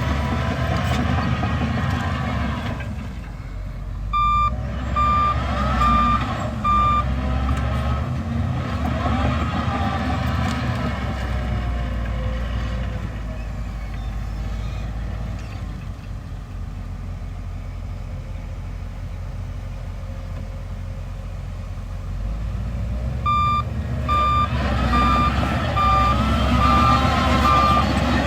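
Heavy diesel earthmoving machinery running, with a reversing alarm beeping at a little over one beep a second: a run of four beeps a few seconds in, and another run starting near the end.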